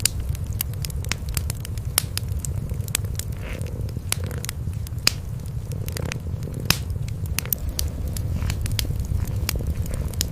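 Wood fire in a fireplace crackling, with irregular sharp pops, over the steady low purring of cats.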